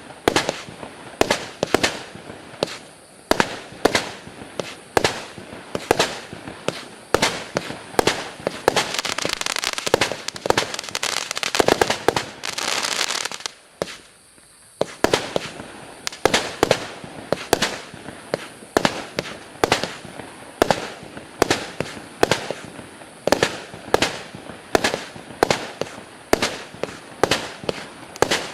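Compact 128-shot 20 mm fireworks cake firing in rapid succession, about two to three bangs a second, with stretches of crackling around the middle and a brief lull before the shots resume.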